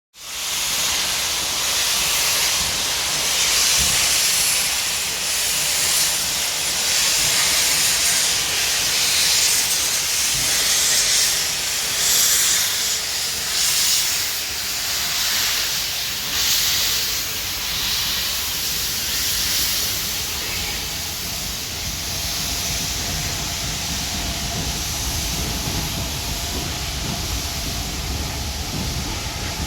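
Steam locomotive letting off a loud, steady hiss of steam that swells in irregular surges. A low rumble of the train builds in the second half.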